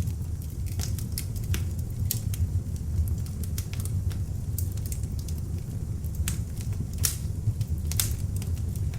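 Beech-wood log fire burning in an open fireplace: a steady low rumble of flames with irregular sharp crackles and pops, two of the loudest near the end.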